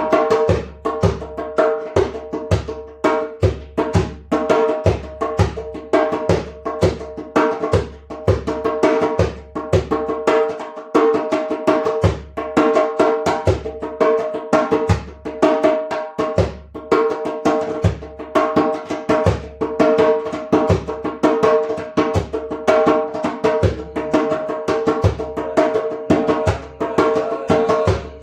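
Improvised percussion music: a drum struck by hand in a quick, uneven rhythm with low thumps, over a steady held tone.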